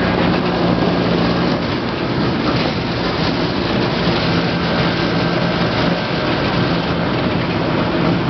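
Roller coaster train running along its steel track, a loud steady rumble heard from the front car, with a faint low hum held through it.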